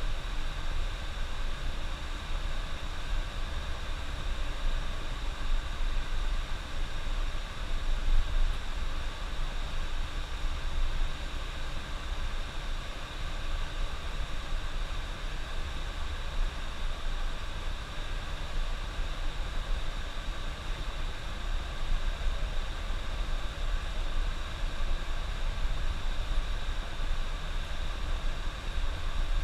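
A moving bus heard from inside, with steady low engine and road rumble under a constant hiss.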